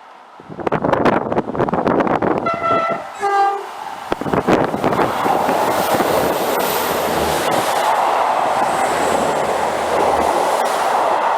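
Train passing close at speed: it sounds a two-tone horn about two and a half seconds in, a higher note then a lower one, and its wheels clatter over the rail joints, settling into a steady rush of wheels on rail as the carriages go by.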